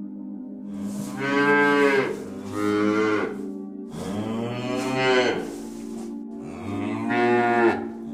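A cow mooing four times, each call long and dropping in pitch at its end, over soft background music with a steady drone.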